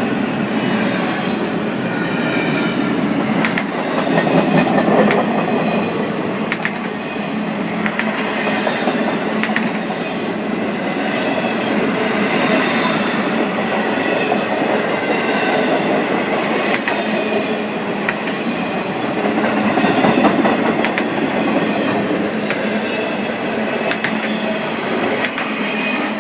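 CSX freight train's cars rolling past, a steady rumble with wheels clicking over rail joints every second or two and a faint high squeal from the wheels.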